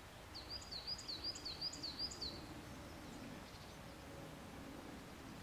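A small bird singing a quick run of about six repeated high notes, each dropping sharply in pitch, over faint steady outdoor background noise.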